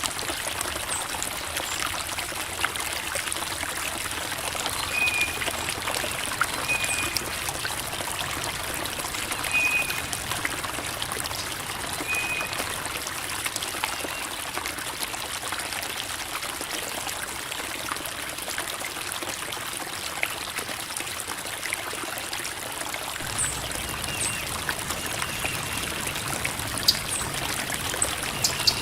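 Creek water babbling and trickling over rocks, a steady even rush. A few short high chirps sound faintly over it several times.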